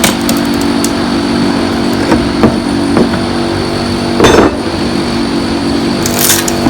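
A steady mechanical hum with a series of knocks and crashes over it, the loudest about four seconds in, as a bookshelf is smashed apart.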